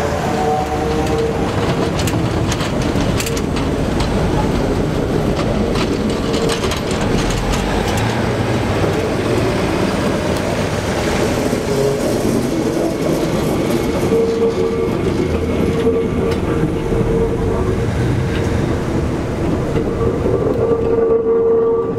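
A slow freight-style tow train, a diesel switcher locomotive hauling a string of rail cars, rolling past with a continuous rumble of wheels on rail and scattered clicks and clanks. A thin, steady whining tone fades in and out a few times.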